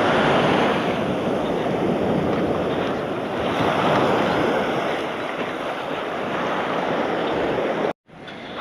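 Ocean surf washing onto a beach: a steady, loud rush of breaking waves that swells and eases slowly, cut off suddenly near the end.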